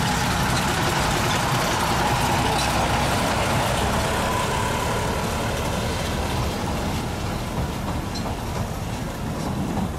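A train on a 381 mm narrow-gauge railway running, a steady mechanical noise that eases off somewhat after about six seconds.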